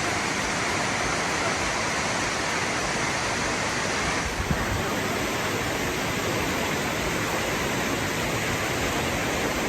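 Steady rush of Dunn's River Falls' water cascading over the rocks, an even wash of noise, with a small knock about four and a half seconds in.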